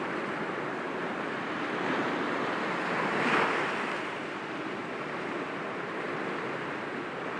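Sea waves breaking gently against rocks, a steady wash of surf with one wave swelling and breaking about three seconds in before settling back.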